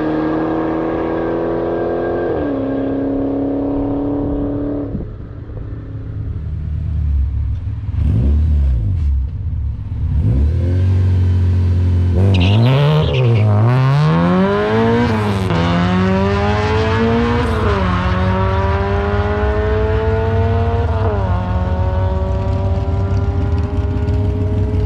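Drag car on a quarter-mile pass: the engine is revved up and down at the line, then launches and accelerates hard, its pitch climbing and dropping at three gear changes, up to fourth gear. Early on, another car's engine accelerates through one gear change and fades away.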